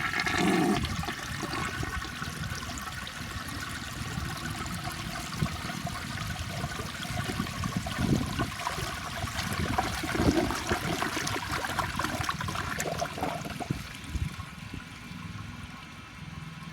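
A 1960 Briggs toilet with a blocked siphon jet flushing: a loud rush of water at the start, then steady running and gurgling water that eases off near the end.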